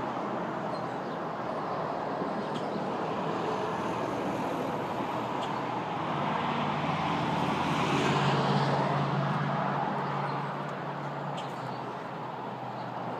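Steady road traffic noise with a vehicle passing, its engine growing louder to a peak about eight seconds in and then fading.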